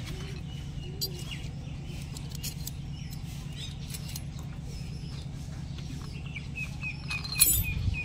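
Birds chirping over a steady low hum, with a quick run of repeated chirps near the end. Light metal clicks of a spanner working the bolts of a tractor differential case, and one sharp clink about seven seconds in.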